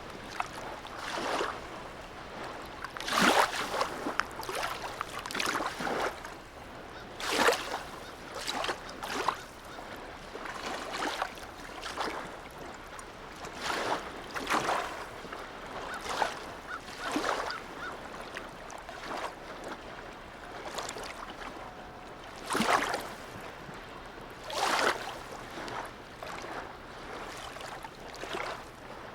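Small waves lapping in a harbour, splashing irregularly, with a few louder slaps about three, seven, twenty-two and twenty-five seconds in.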